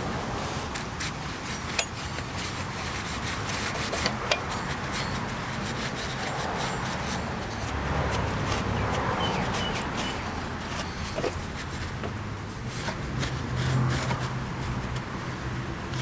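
Steady rubbing and scrubbing at a motorcycle chain sprocket as it is cleaned of grime, with scattered light clicks and a couple of sharper knocks.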